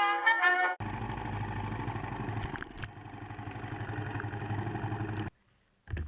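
Motorcycle engine running steadily with a low, rapidly pulsing rumble, which cuts off suddenly about a second before the end. Old-time brass dance-band music stops abruptly just before it.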